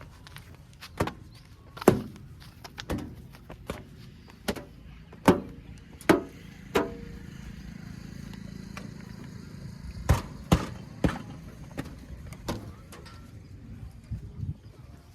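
An irregular series of sharp knocks and clanks, about a dozen in all, with a low steady rumble underneath in the middle stretch.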